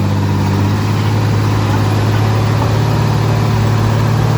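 Heavy diesel engine of an earthmoving machine running steadily at an even speed.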